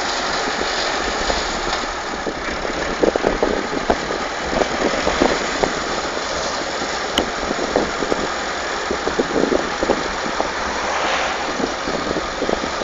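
Tractor engine running as it drives across a field, a steady noisy drone with frequent irregular rattles and knocks.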